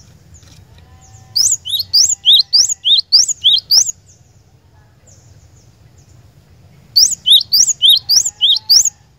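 Cinereous tit (glatik batu) singing two bursts of its loud, repeated two-note whistled song, about three phrases a second, with a pause of a few seconds between the bursts.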